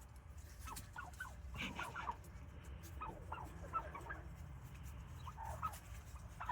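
Wild turkeys making soft, short calls, a scattered run of brief clucks and chirps from several birds at low level.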